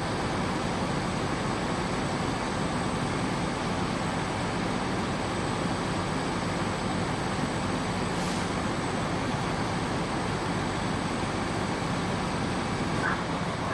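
Steady engine noise, even and unchanging, with no distinct events.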